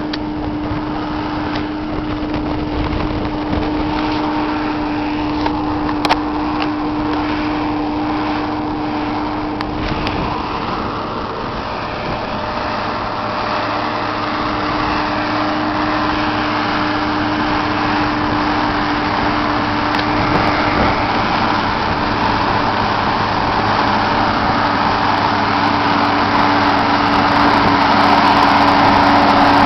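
New Holland TM180 tractor's diesel engine running steadily, growing gradually louder over the second half.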